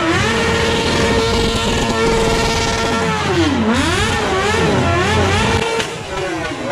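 Honda sport motorcycle engine revving hard during a tyre-smoking burnout. It is held at high, steady revs for about three seconds, then drops sharply and climbs back, wavers, and drops again near the end.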